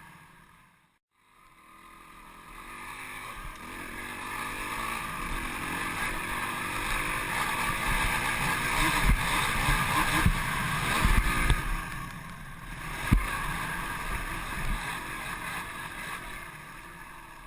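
Dirt bike engine running, growing louder to a peak mid-way and then fading as it moves away, with low thumps of wind buffeting the microphone.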